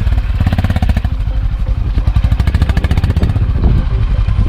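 Single-cylinder motorcycle engine idling close by, a steady, even beat of exhaust pulses.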